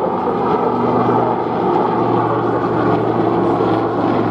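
Westland Lynx helicopter, with two Rolls-Royce Gem turboshaft engines, flying in display: a steady, loud engine and rotor drone with a held low hum.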